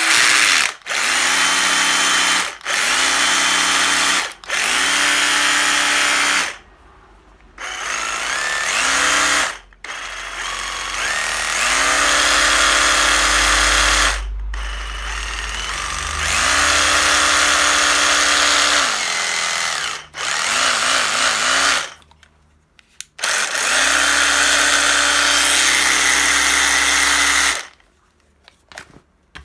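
Makita HR161D 12V cordless hammer drill motor run in repeated trigger pulls, about nine times: each run spins up to a steady whine and stops, most lasting one to two seconds. A longer run in the middle carries a deeper rumble.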